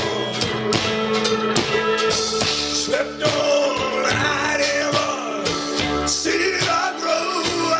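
Live rock band playing, with a drum kit keeping a steady beat under sustained instrument notes and a singer's voice gliding over it.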